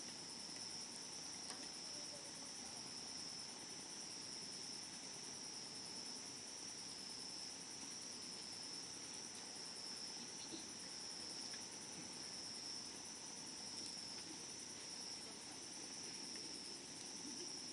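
Steady high-pitched trilling of an insect chorus, likely crickets, with a few faint crackles from the burning wood campfire.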